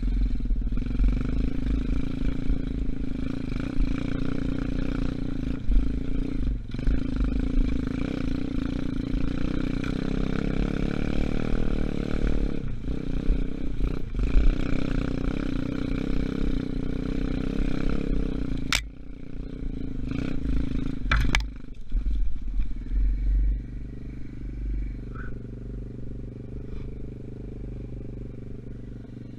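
125cc dirt bike engine running under way, with wind buffeting the microphone. Two sharp knocks come about 19 and 21 seconds in. Then, for the last several seconds, the engine settles to a quieter, lower, wavering note, as if idling or rolling slowly.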